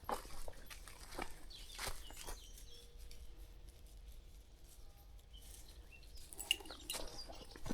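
Footsteps on a country path that stop for a few seconds in the middle and then start again, with faint bird calls in the background.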